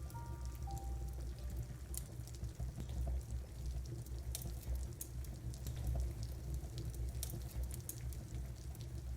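Steady rain with a low rumble, broken by scattered sharp crackles and pops from a wood-burning fire. A few soft descending musical notes fade out in the first second.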